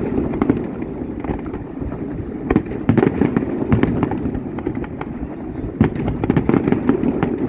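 Fireworks display: sharp bangs and crackling reports going off in quick clusters, densest about two and a half to three seconds in and again from about six seconds.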